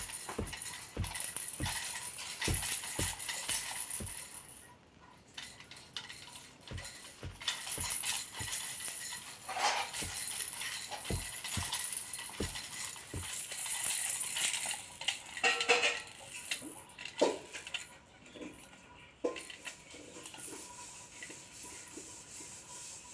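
Small hard objects clinking and knocking, with a run of soft thuds about twice a second through the first half.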